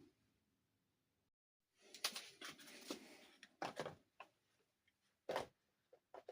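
Close handling noises from unboxing small plastic dollhouse furniture and its packaging: after a second or so of silence, rustling with several sharp clicks.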